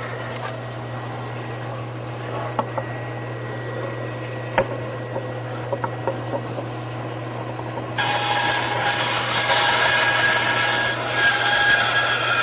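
Power saw running with a steady low motor hum, with a few light knocks as wood is handled; about eight seconds in the blade starts cutting into the wood and the sound gets louder and harsher.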